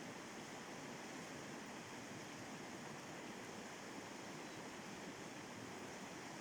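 River rapids rushing, a steady, unbroken wash of water noise.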